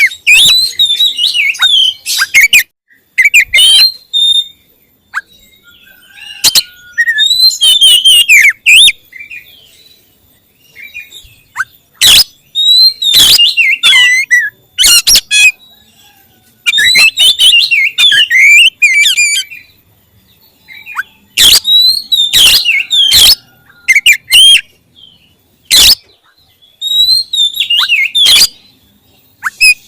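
Oriental magpie-robin (kacer) singing loudly: bursts of quick, varied whistled phrases with sharp clicking notes, each burst a second or two long, with short pauses between them.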